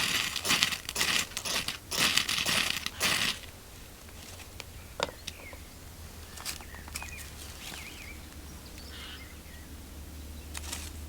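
Loud crinkling, rustling in quick bursts for about three seconds, then quieter with a few sharp clicks and faint chirps.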